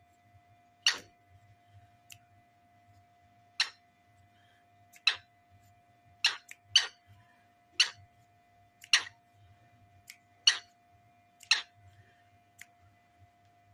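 A pet cockatiel making about ten short, sharp clicks at irregular intervals, over a faint steady hum.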